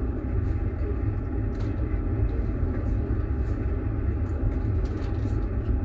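Moving passenger train heard from inside an open-plan sleeper carriage: a steady low rumble of the wheels running on the rails, with a few faint scattered clicks.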